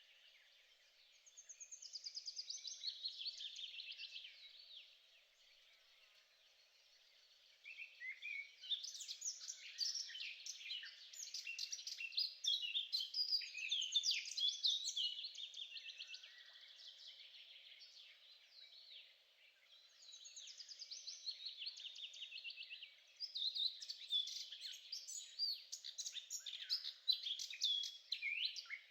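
Songbirds singing: long runs of rapid, high chirps and trills, with pauses of a few seconds between bursts, over a faint steady low hum.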